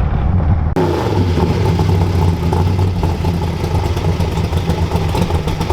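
Car engine running loudly at low revs, steady with no clear rise in pitch, with an abrupt change in the sound about a second in.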